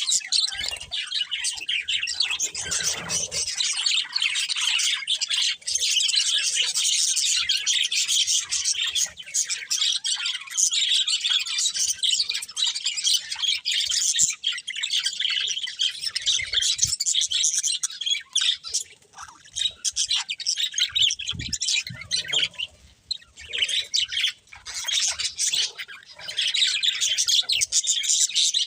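Budgerigars chirping and chattering in a dense, rapid flow of high calls. The chatter thins to scattered calls for several seconds past the middle, then picks up fully again near the end.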